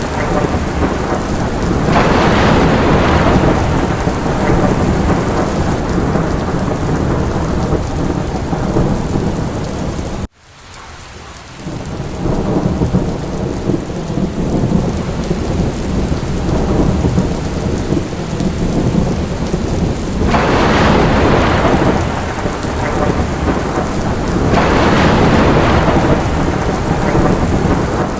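Steady heavy rain with deep rolling thunder rumble, swelling louder a few times. About ten seconds in the sound cuts out abruptly and fades back up over a couple of seconds.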